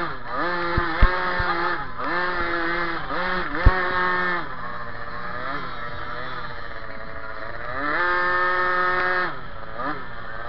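Small off-road motorcycle engine heard close from an onboard camera, revving up and down with the throttle: held high in stretches, easing off for a few seconds in the middle, then rising again near the end. A few sharp knocks sound in the first couple of seconds and once more at about three and a half seconds.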